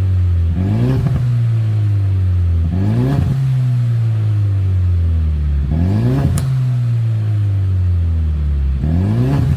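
Ford Mustang 2.3 EcoBoost turbocharged four-cylinder heard through a Code R1 valved cat-back exhaust, blipped four times. Each rev rises quickly and sinks slowly back to a low idle. There is one sharp crack at the top of the third rev.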